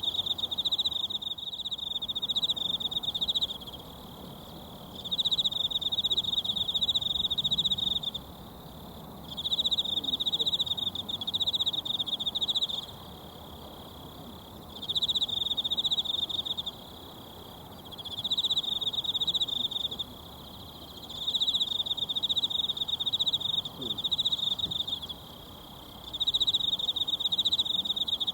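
An insect trills in repeated bouts of two to four seconds, each broken by a pause of a second or two, over the faint, steady rush of a mountain stream.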